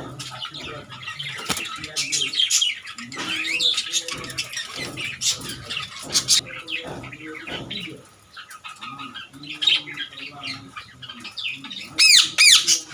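A flock of birds chirping and squawking over one another, with lower calls underneath and a loud run of sweeping high-pitched calls near the end.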